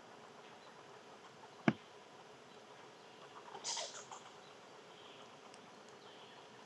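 Quiet outdoor ambience with one sharp click about a second and a half in, then a brief scratchy rustle about two seconds later.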